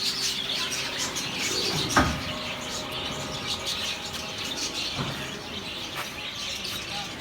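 Many caged budgerigars chirping together in a steady high chatter, with a sharp knock about two seconds in.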